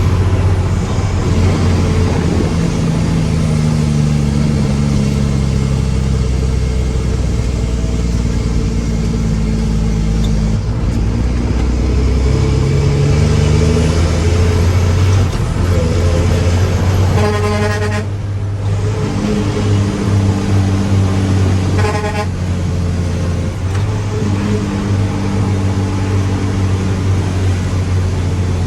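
Heavy diesel truck engine running, its pitch rising and falling as it is revved. A horn sounds twice about two-thirds of the way through, first for about a second, then briefly.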